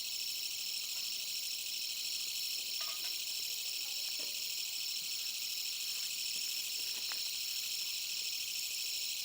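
Steady, high-pitched chorus of insects such as crickets, with a few faint clicks now and then.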